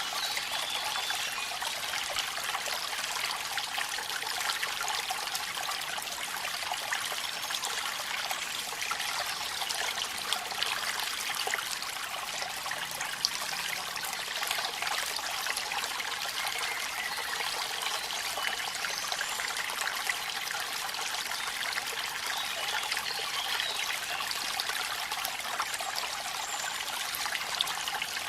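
Steady hiss of rain and falling waterfall water, dense with fine patters and with little low rumble.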